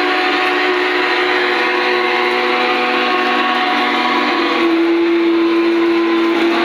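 Lionel Union Pacific 4-8-8-4 Big Boy O scale locomotive's onboard sound system blowing a long, chime-like steam whistle over a steady hiss. The chord shifts in pitch about four and a half seconds in.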